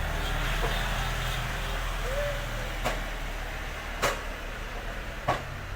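Sharp clicks of tool work on the amplifier as the second blown filter capacitor is being loosened, three of them about a second apart, over a steady low hum.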